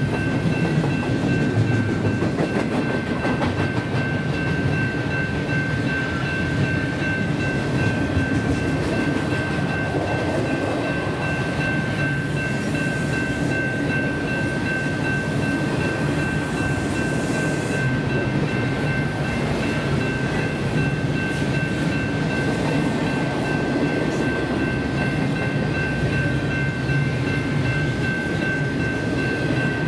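Double-stack intermodal freight train rolling past at steady speed: the continuous noise of container-laden well cars' wheels running on the rails, with a steady high ringing tone over it.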